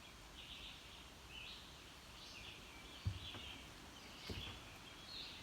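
Birds singing faintly in short, high chirping phrases that repeat about once a second, with a soft thump about three seconds in.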